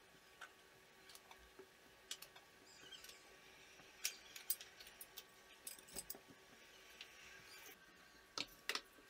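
Quiet, scattered light clicks and taps of small objects being handled. A quick cluster comes about four to five seconds in and two sharper clicks near the end, over a faint soft rustle.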